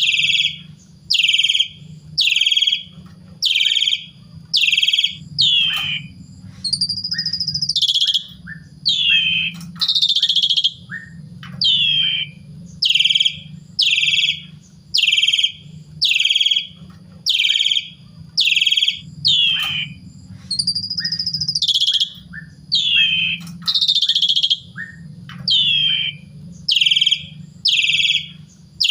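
Pied starling (jalak suren) calling over and over, about one loud, short, downward-sliding call a second, with a few longer whistled phrases in between. A low hum runs underneath.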